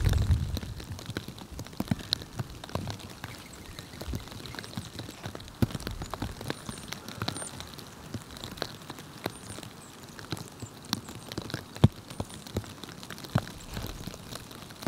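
Irregular light ticking and tapping, a rain-like patter, with a few faint high chirps.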